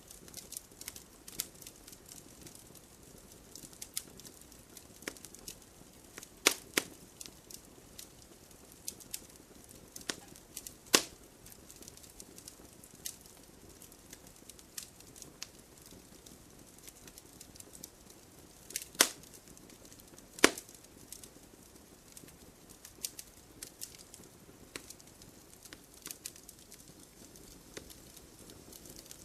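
Wood campfire crackling over a soft steady hiss, with scattered small pops and a few louder snaps.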